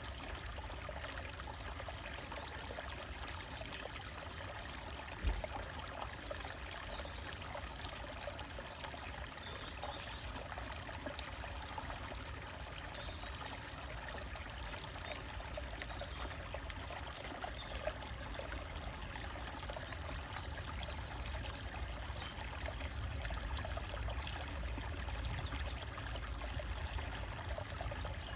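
Stream trickling and splashing over rocks, a steady rush of water, with birds chirping faintly now and then. A brief low thump about five seconds in.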